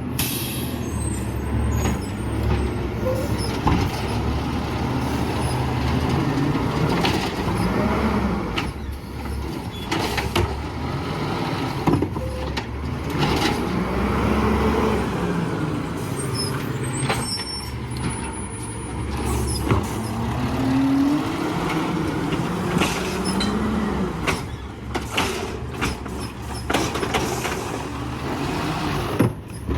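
Garbage truck engine running, its note rising and falling several times, with scattered knocks and clanks.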